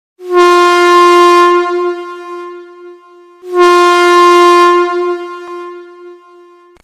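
Train air horn sounding two long single-pitch blasts about three seconds apart, each loud at first and then trailing off.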